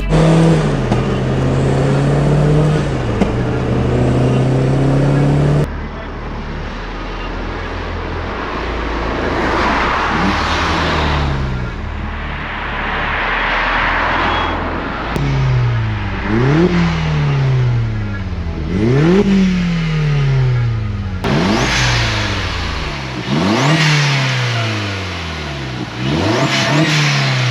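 Turbocharged 1.8-litre four-cylinder from an Audi TT, swapped into a Mk2 Volkswagen Golf. It first runs at steady revs with one brief dip, then is revved again and again: each time the engine shoots up sharply and falls back more slowly.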